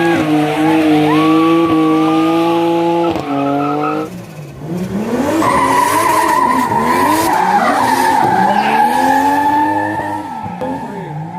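Drift car engine held at high revs, stepping in pitch a couple of times, then the tyres squeal in a long steady screech through a drift while the engine revs rise and fall under it.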